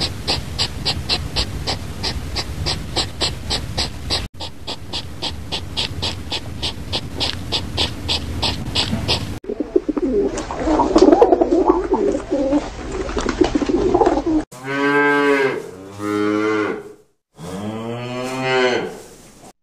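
Cattle mooing near the end: three long, low lowing calls. Before them comes a fast, even high-pitched chirping at about three pulses a second, then a jumble of noisier animal sound.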